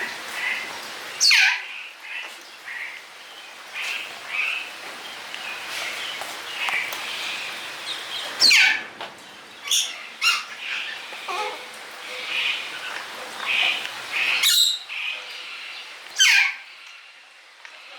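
Captive parrots calling: a steady scatter of short chirps, broken by three loud screeches that slide steeply down in pitch, about a second in, about eight seconds in, and near the end.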